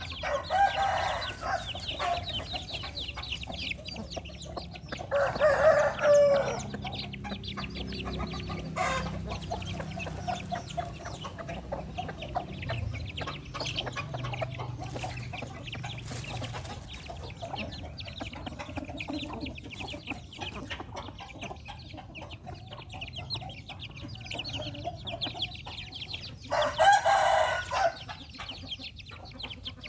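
Chickens clucking steadily over a busy patter of short calls and pecking clicks, as a hen and her chicks are fed. A rooster crows three times: at the start, around five seconds in, and near the end.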